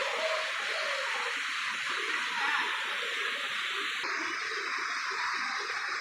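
Running water, a steady rushing hiss like a small waterfall or stream, whose upper hiss changes abruptly about four seconds in.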